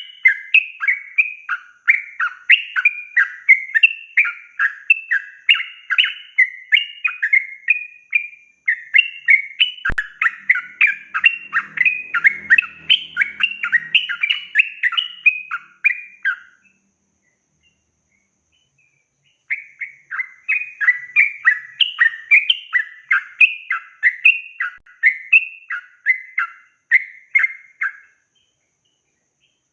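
Yellow-vented bulbul (trucukan) singing a long, rapid run of chattering, swooping notes, the 'ropel' song. It stops for about three seconds just past the middle, then takes up the run again. There is a single sharp click about a third of the way in.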